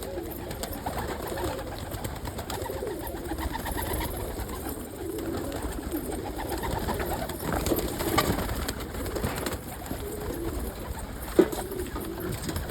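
Several domestic pigeons cooing together in a loft, a steady overlapping low warble, with one sharp knock near the end.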